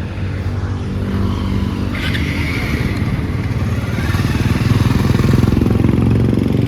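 Motorcycle engine running under way, its note steady and growing somewhat louder past the middle.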